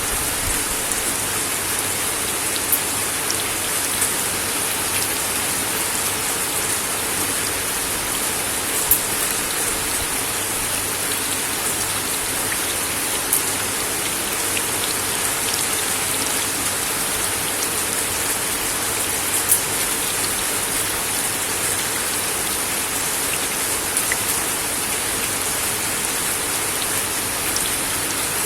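Steady rain falling on a wooden deck, an even hiss with now and then a sharper drop tapping close by.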